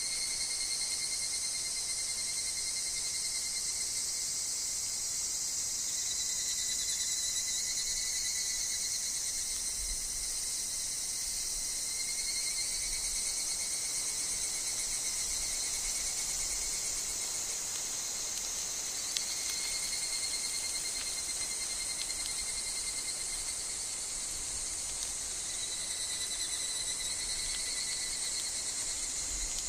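Steady woodland insect chorus including higurashi (evening cicadas): a continuous high-pitched shrill with steady, slightly wavering tones running through it.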